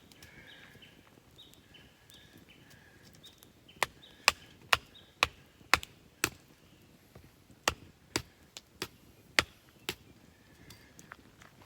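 Firewood being chopped: about a dozen sharp wooden strikes, roughly two a second, with a short pause partway through.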